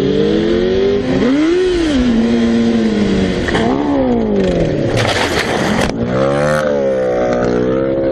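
Motorcycle engine revving, its pitch climbing and dropping again several times as the throttle opens and closes, with a harsh rushing noise lasting just under a second about five seconds in.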